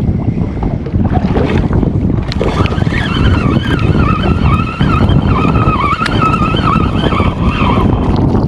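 Strong wind buffeting the microphone, with a wavering high-pitched whine that starts about two seconds in and fades near the end.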